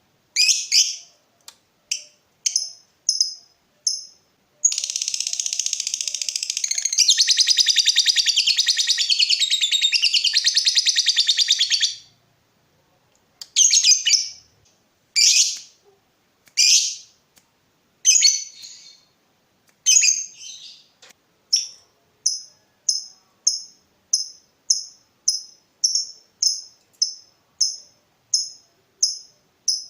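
Lovebird calling: a few sharp chirps, then a long, rapid chattering trill (the 'ngekek') lasting about seven seconds. After a pause come separate shrill calls, then a steady run of short ticking chirps (the 'ngetik'), about two a second, through the last third.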